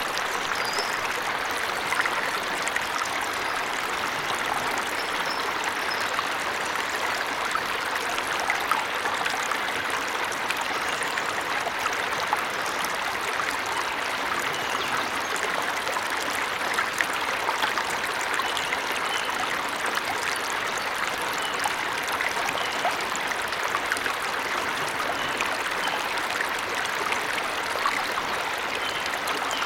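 Small forest waterfall or stream, water splashing and running steadily over rocks, with a few faint bird chirps now and then above it.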